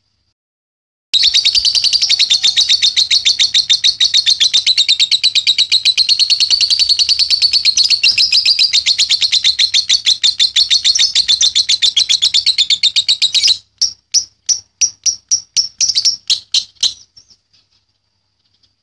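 Young lovebird 'ngekek': a long, rapid, unbroken chatter of high chirps that starts about a second in and runs for about twelve seconds. It then slows into a dozen separate chirps and stops.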